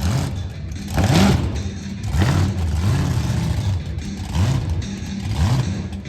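Monster truck engine revving in repeated short bursts, its pitch climbing with each throttle blip about once a second.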